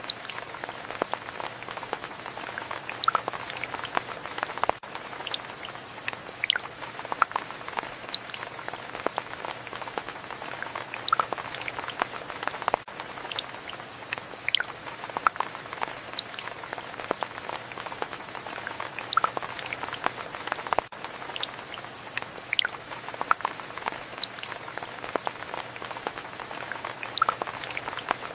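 Steady rain, with many individual drops dripping and pattering close by.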